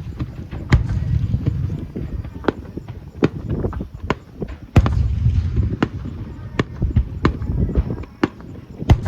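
Aerial fireworks going off in quick succession: many sharp cracks and bangs at uneven intervals over a continuous low rumble of bursts and echoes, with especially loud reports just under a second in, near the middle and at the end.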